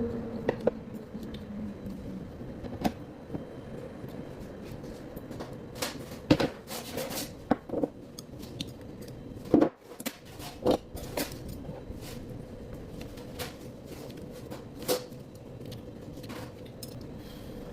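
Eating utensils clicking and clinking against dishes at irregular intervals during a noodle meal. The clicks are loudest and most frequent around the middle.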